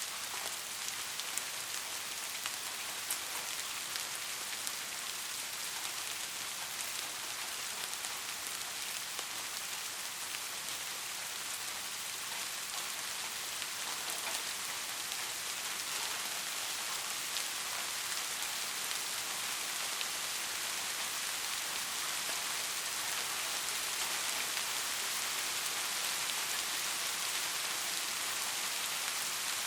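Heavy rain falling steadily: a dense, even hiss with scattered individual drops ticking through it.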